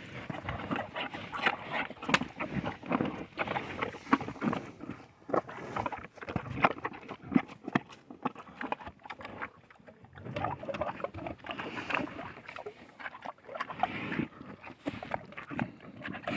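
An animal slurping beer from a rubber tub: many quick, irregular wet slurps.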